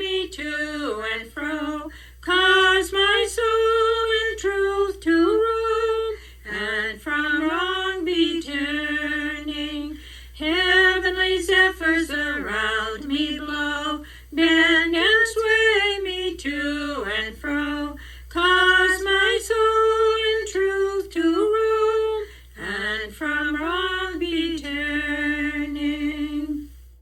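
A woman's voice singing a Shaker spiritual unaccompanied, one melodic line in slow, held phrases, over a steady low hum.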